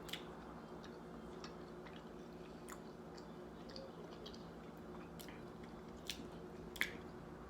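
A person chewing plantain close to the microphone: soft wet mouth clicks and smacks, with a couple of sharper clicks about six and seven seconds in, over a faint steady hum.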